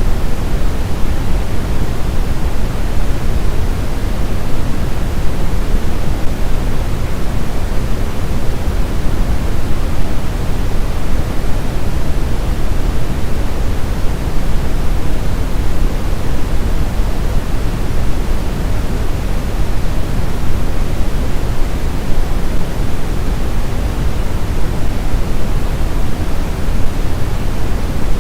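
Steady white noise of the sleep-aid kind, an even rushing hiss that is heavier in the lows than in the highs and does not change.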